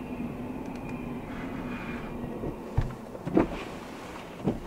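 CSX intermodal freight train rolling past: a steady rumble of wheels on rail with a thin high ring that fades out about two seconds in. A few brief knocks follow as the tail of the train nears.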